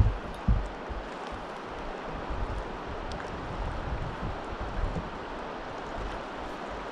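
Wind buffeting the microphone over a steady rush of river water, with a few low thumps near the start.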